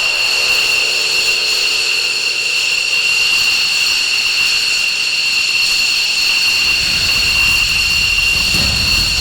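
F-15J fighter jet engines running on the ground, a steady high-pitched whine at several pitches held together. A low rumble joins about two-thirds of the way in.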